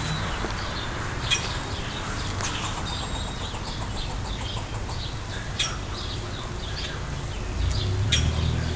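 Squirrel giving a run of short, high, irregular chirping alarm calls with a few sharper clicks, the tail-whipping call that sounds like an engine cranking but not firing.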